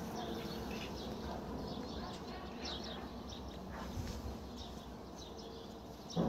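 Small birds chirping, with short high chirps scattered throughout over a faint steady background hum; a brief louder sound near the end.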